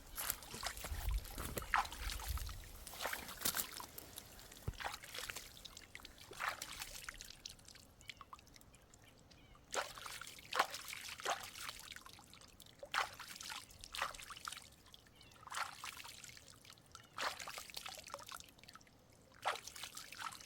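Water trickling and splashing in uneven, irregular spurts, with a brief low rumble in the first couple of seconds.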